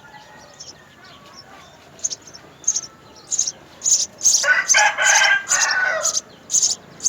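House sparrows chirping, short high calls about two a second that grow louder from about two seconds in. A rooster crows loudly over them for about a second and a half past the midpoint.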